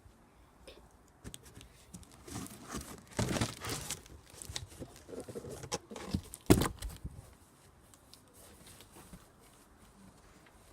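Cardboard box being smashed with a vacuum cleaner pole: a run of tearing, crumpling crackles, with one sharp knock a little past the middle.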